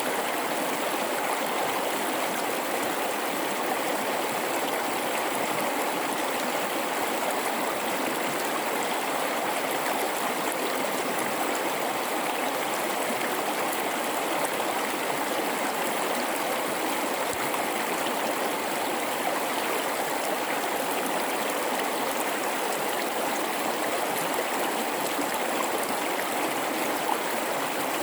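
A mountain river in a rocky gorge flowing and babbling over rocks, a steady rushing water sound.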